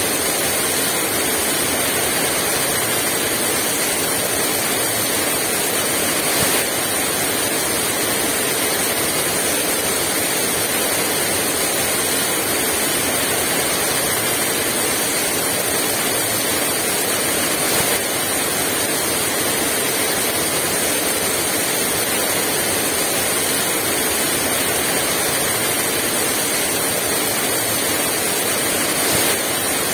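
Heavy rain pouring steadily, a dense even hiss without wind.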